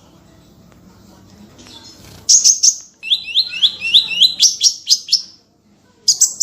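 Small songbird singing sharp, high, rapid notes. A quick cluster of three comes about two seconds in, then a fast run of downward-slurred chirps at about five a second, and after a short pause another burst near the end.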